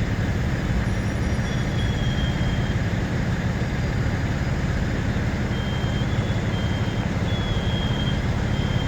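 Heavy truck engines idling steadily with a low, even rumble. Short high-pitched beeps sound on and off, starting about a second and a half in and again from the middle on.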